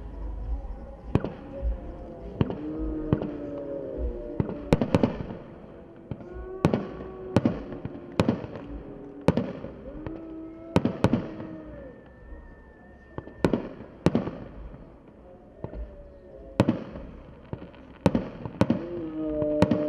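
Aerial fireworks going off in a display: a rapid, irregular string of sharp bangs, roughly one or two a second, with held pitched sounds between them.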